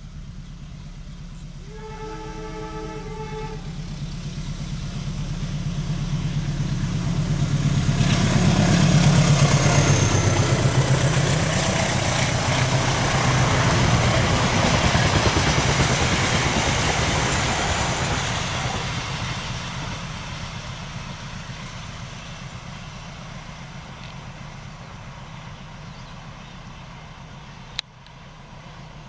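General Electric diesel-electric locomotive sounds a short horn blast about two seconds in, the semboyan 35 warning signal Indonesian trains give for level crossings. Its engine rumble then swells as it passes, followed by the rolling noise of the passenger carriages on the rails, fading away. A single sharp click near the end.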